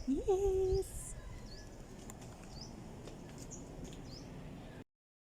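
A small bird chirping over and over, each chirp short, high and rising, about one a second.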